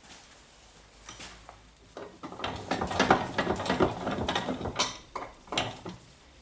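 Bench vise being worked to press a part into a rotary hammer's swash bearing assembly: a quick run of metallic clicks and rattles from about two seconds in, followed by a few separate clicks.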